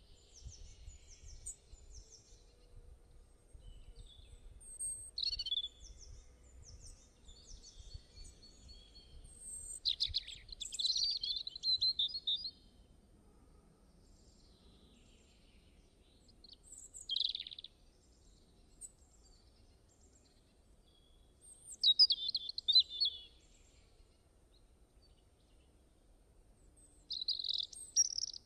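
Small songbirds chirping and singing in short bursts every few seconds, with quiet gaps between, over a faint low rumble.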